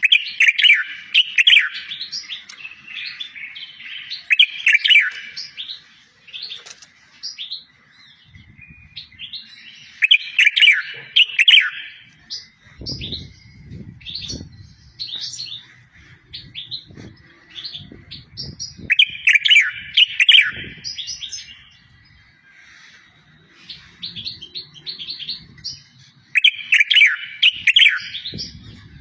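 A songbird singing fast, twittering phrases of rapid high chirps, loud bursts every several seconds with quieter notes between. This is a tutor-song recording for teaching goldfinches and canaries. Faint low thuds are heard in the middle.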